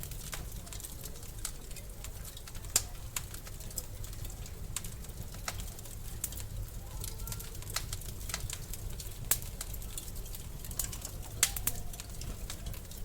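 Wood fire crackling in a fireplace, with irregular sharp pops and snaps over a low, steady rumble of the flames; a few pops stand out louder.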